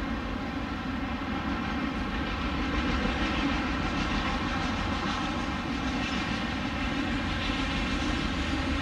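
Freight train of enclosed autorack cars rolling past at steady speed: a continuous rumble of steel wheels on the rails.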